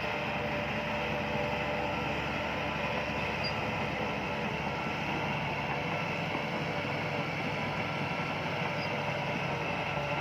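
Bulldozer's diesel engine running steadily, with a rough, even mechanical noise and steady tones that do not change.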